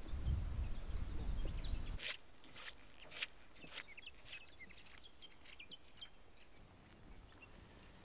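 Faint chirping of small birds in short, high notes, with a few sharp clicks among them. A low rumble fills the first two seconds and stops abruptly.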